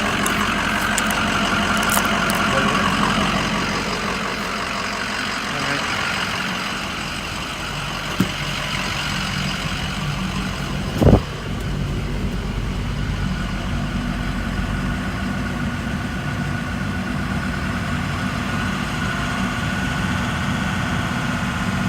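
Truck engine idling steadily, with one sharp clack about eleven seconds in and a fainter click shortly before it.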